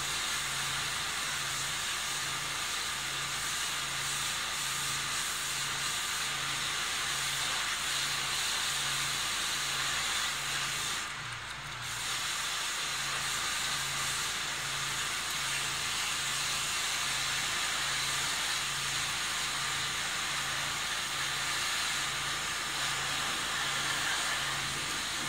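Steady hiss of heavy rain falling, easing for a moment about halfway through. A faint low hum underneath pulses on and off about twice a second.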